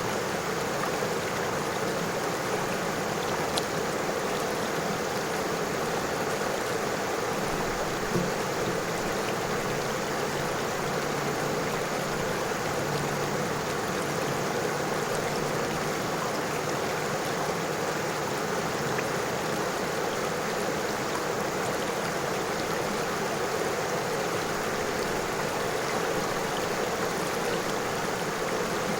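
River water flowing over stones: a steady, even rush.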